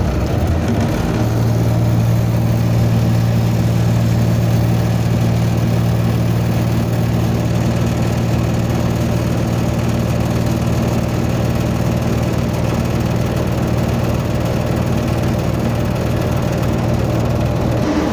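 Truck refrigeration (reefer) unit running with its fans spinning: a loud, steady mechanical hum that settles in about a second in.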